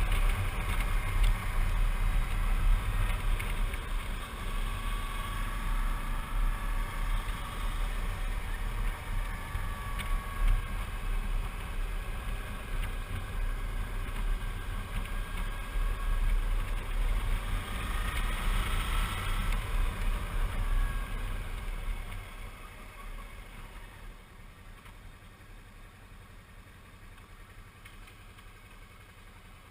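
Suzuki V-Strom 650 V-twin engine running while riding, with wind rumble on the microphone, the engine note rising and falling. About two-thirds of the way through, the sound drops sharply and stays quieter as the bike slows.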